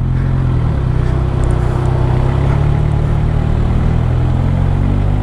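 Suzuki GSX650F inline-four motorcycle engine running at steady revs, heard from the rider's own onboard microphone, with a noise haze over the engine note.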